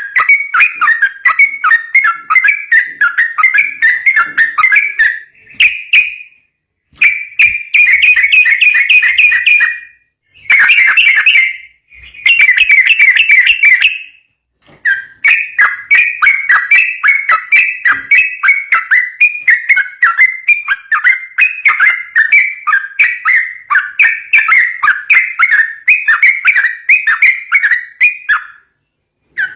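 Yellow-vented bulbul singing a rapid, continuous run of bubbly whistled notes, the fast 'ropel' song used to lure and train other birds. It breaks off briefly a few times.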